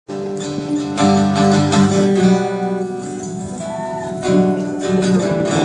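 Acoustic guitar strumming the opening chords of a song, chords ringing between fresh strums, with no singing yet.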